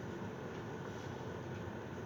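Hölmer electric kettle filled to its maximum, at a full boil: a steady rumbling hiss of boiling water.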